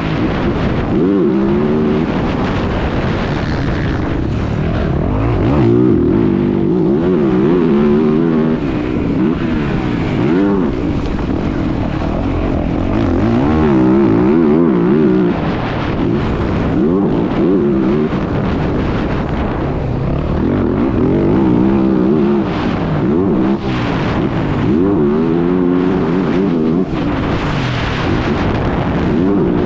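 Motocross bike engine heard from onboard, revving up and dropping back again and again as the rider accelerates and shifts through a lap, with rough wind and track noise under it.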